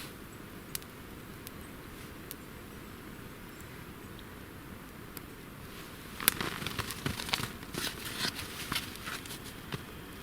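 Dry snaps and crackles of twigs: a few single clicks, then a quick run of snapping and crackling starting about six seconds in, loudest at its first snap.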